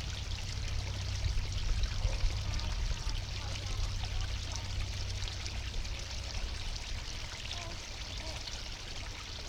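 Steady rushing and pouring of a flood-swollen creek and its small waterfall, with a low rumble underneath.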